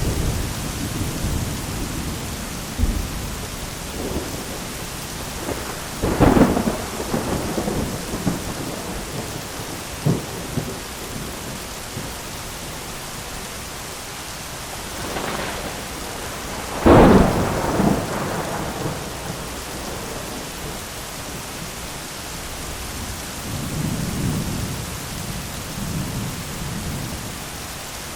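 Steady heavy rain in a thunderstorm, with two sharp thunder cracks about six and seventeen seconds in, the second the loudest, and low rolling rumbles near the end.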